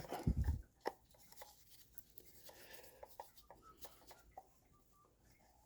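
Faint clicks and rubbing of tools and parts being handled, with a short low thump about half a second in.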